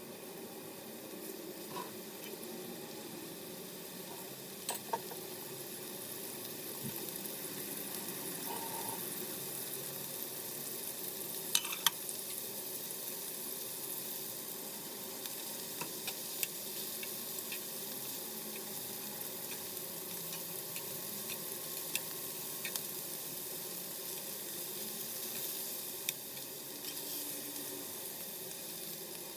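Food sizzling steadily in a frying pan, with a few sharp taps scattered through it, the loudest pair about twelve seconds in.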